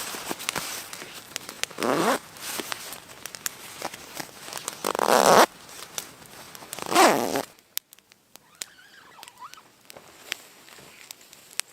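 A zipper pulled in three strokes about two to three seconds apart, the middle one the loudest, followed by a few faint clicks.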